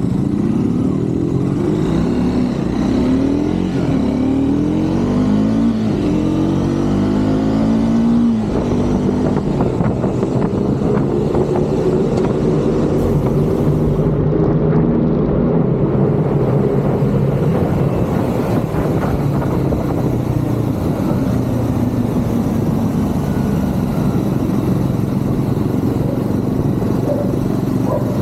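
Triumph Scrambler 400 X single-cylinder engine, heard from the rider's position, accelerating through the gears. Its pitch rises and drops back at each upshift about every two seconds, then the engine settles to a steady cruise from about eight seconds in.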